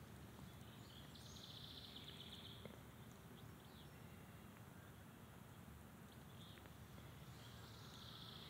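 Faint outdoor ambience with a low steady rumble, and a distant bird's high, fast trill lasting about a second, heard about a second in and again near the end.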